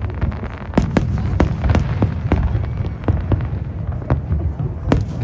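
Fireworks going off in quick succession: sharp cracks and bangs, about two or three a second, over a continuous low rumble.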